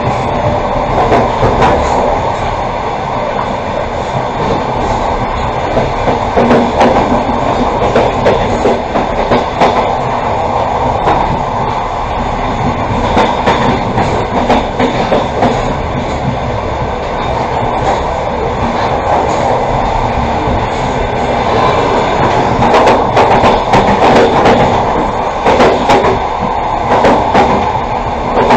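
Passenger train running along the track as heard from inside a carriage: a steady rumble of wheels on rail, with a continuous clickety-clack of the wheels over rail joints and sharper clicks and rattles near the end.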